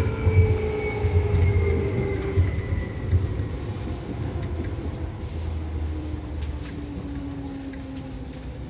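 Seibu 2000 series electric train heard from inside the car: a low running rumble with a motor whine that falls steadily in pitch, the whole sound fading as the train slows.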